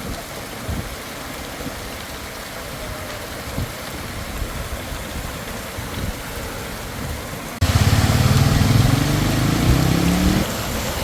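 Heavy rain falling and running water, a steady hiss. About two-thirds of the way in, the sound gets suddenly louder as a vehicle engine revs up, rising in pitch for a few seconds before it drops away near the end.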